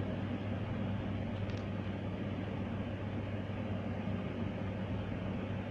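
Steady low hum and background noise, even throughout, with no distinct sounds standing out.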